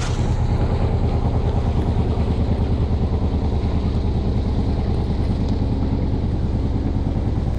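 Canal day boat's engine running steadily with an even low throb as the boat passes.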